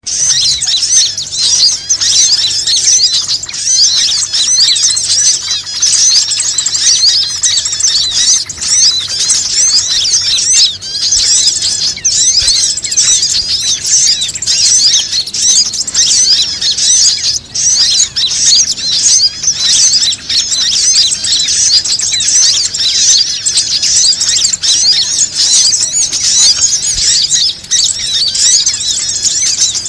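Bird-lure (pikat) call: a dense, loud, unbroken chorus of many small songbirds chirping and trilling rapidly in high pitch.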